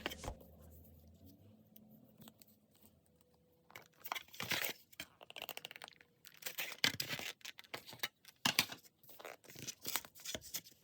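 Irregular crinkling, tearing and clicking handling sounds that start about four seconds in, after a stretch of near silence.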